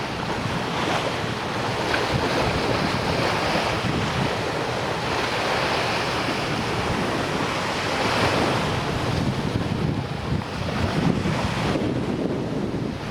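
Sea waves breaking and washing up on a sandy beach, swelling and easing, with wind buffeting the microphone.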